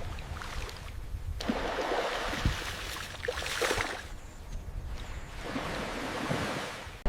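Water splashing and running in uneven surges, with a few brief knocks.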